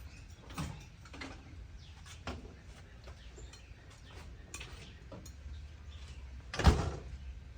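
Scattered light knocks and clicks of tools and parts being handled, with one louder knock near the end, over a low steady hum.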